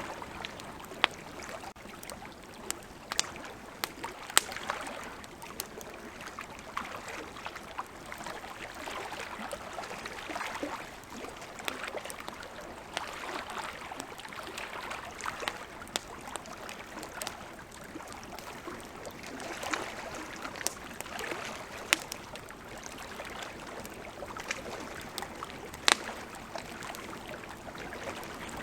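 Wood campfire crackling, with sharp pops at irregular intervals, over the steady rush of flowing river water.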